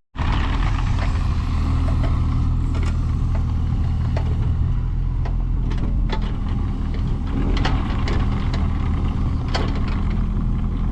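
An engine running steadily at a constant speed, with scattered sharp clicks over it.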